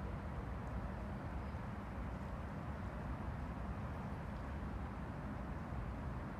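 Small waves on the Han River lapping, heard as a steady low rushing with no distinct splashes.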